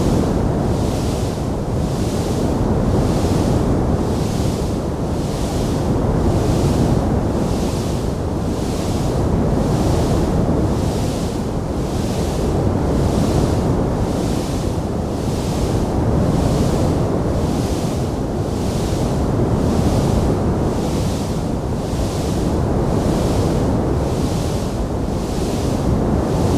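Wood fire burning in a fireplace: a steady low rushing roar that swells and eases every few seconds, with a soft hiss pulsing a little over once a second and no distinct crackles or pops.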